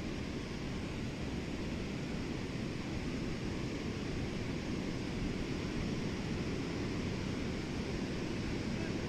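Steady surf washing onto a sandy beach, with wind on the microphone.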